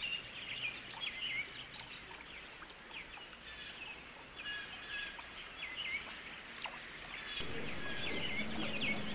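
Birds chirping repeatedly against a faint outdoor background; about seven and a half seconds in a louder rushing noise with a low hum comes in.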